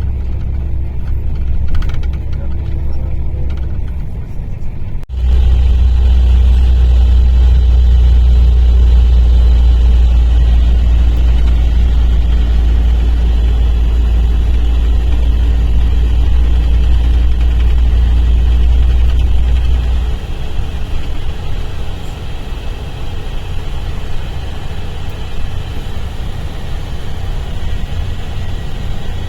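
Mercedes-Benz O-500RSD double-decker coach's diesel engine running with a deep, steady rumble. It breaks off sharply about five seconds in and comes back louder, then eases to a lower level about twenty seconds in.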